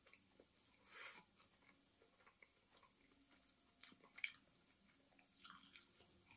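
Faint close-up chewing of food in a person's mouth, with a few short soft clicks and smacks, about a second in and again around four seconds in.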